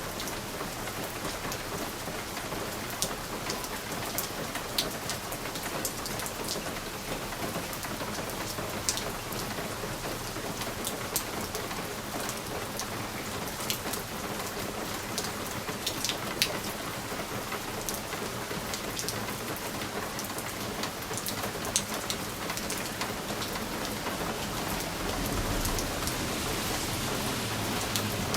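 Steady rain pattering on window glass, with scattered sharp ticks of single drops striking it. A low rumble swells in near the end.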